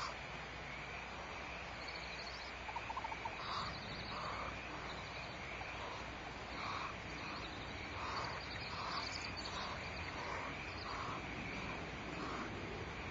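Short, soft animal calls repeated about once or twice a second over a steady outdoor background hum, with a quick run of clicks about three seconds in.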